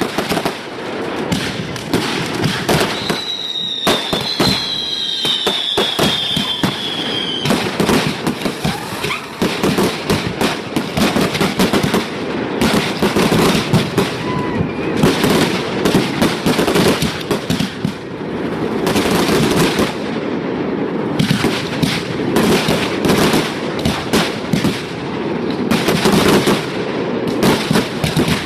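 Display fireworks going off in a fast, continuous barrage of bangs and crackles. From about 3 to 7 seconds in, two whistling fireworks sound together, each a high whistle sliding slightly down in pitch.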